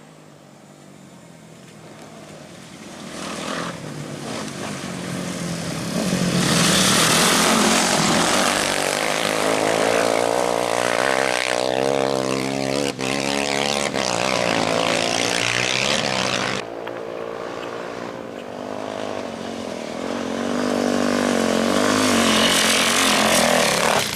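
Engine of an off-road race motorcycle or quad approaching and passing at speed, its pitch rising and falling as it is worked through the curve; another engine grows louder near the end.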